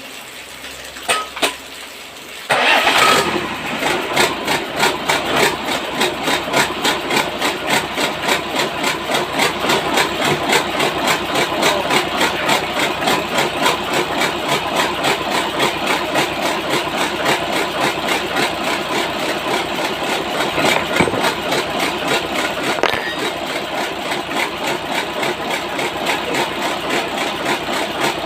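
Small engine with a newly replaced piston being started: a few clicks, then it catches about two and a half seconds in and keeps running steadily with an even, rapid firing beat.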